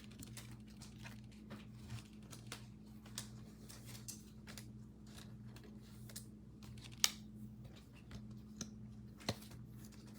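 Faint, irregular clicks and taps of trading cards being handled on a table, with one sharper click about seven seconds in, over a steady low electrical hum.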